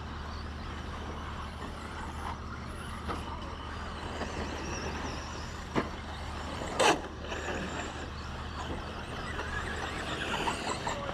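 Radio-controlled short course trucks running on a race track over a steady hum and hiss. There is a sharp knock just before the midpoint, a louder one about a second later, and a wavering motor whine near the end.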